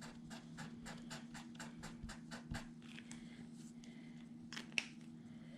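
Marker strokes on paper, quick and rhythmic at about four or five a second, thinning out after about three seconds, with a sharper click near the end. A steady low hum runs underneath.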